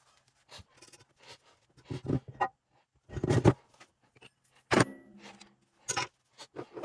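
Metal parts and hand tools clinking and clanking against each other while a transfer case is worked apart. The knocks are irregular, and one sharp strike a little past the middle rings briefly.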